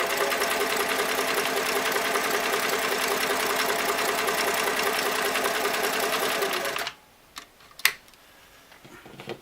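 Singer Model 337 sewing machine running steadily at speed, stitching a zigzag test seam, then stopping abruptly about seven seconds in. A few sharp clicks follow.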